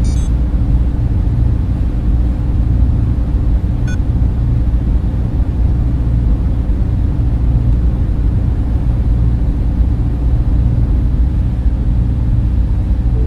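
Server room cooling fans running: a steady, deep, even whoosh with no change in level.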